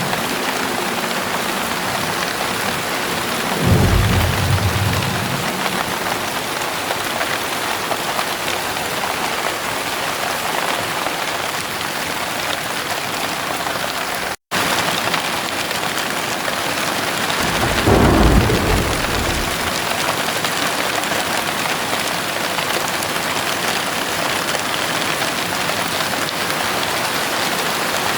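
Heavy rain pouring steadily, with two low rolls of thunder, one about four seconds in and another about eighteen seconds in. The sound cuts out for an instant about halfway through.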